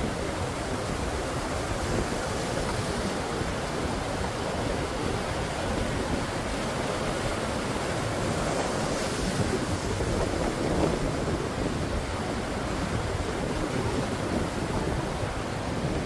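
Steady rushing noise of wind and waves in rough weather, unbroken throughout.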